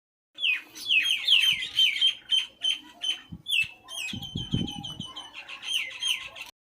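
Small birds chirping: a rapid string of short, falling peeps, with a few dull low thumps about halfway through.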